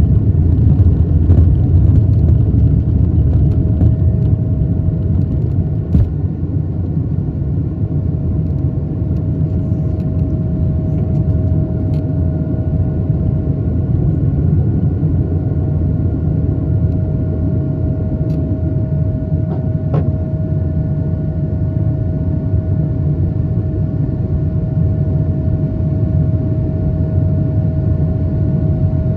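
Airbus A220-300's Pratt & Whitney PW1500G geared turbofans running at takeoff power: a loud, steady low rumble with a steady whining tone over it. The rumble eases slightly about five or six seconds in.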